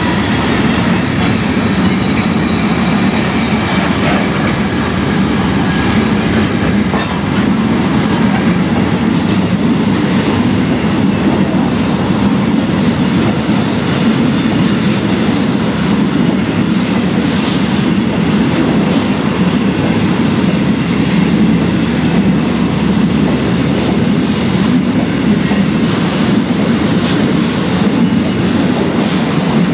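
Railway wagons rolling past close by: a steady rumble of steel wheels on the rails with rail-joint clicks, and a brief high squeal about halfway through.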